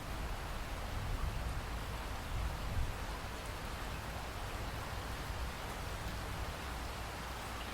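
Heavy rain falling steadily, with a low rumble underneath and no distinct thunderclap.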